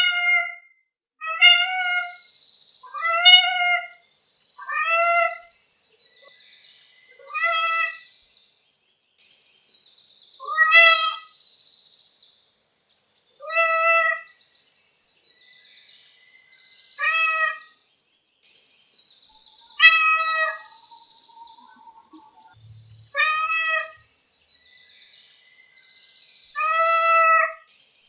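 A cat meowing again and again, about a dozen short meows a couple of seconds apart, with faint high chirping in the background between them.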